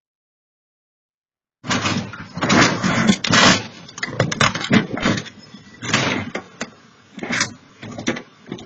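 Vehicle noise with loud, irregular knocks and bangs, starting about two seconds in and cutting off abruptly at the end.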